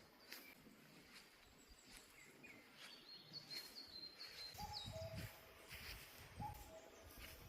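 Birds calling faintly: a run of high, thin chirps about three to four and a half seconds in, and several short, low, coo-like notes. A low wind rumble comes and goes in the second half.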